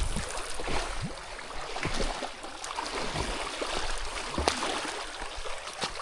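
Flowing river water with irregular splashes and sloshing throughout.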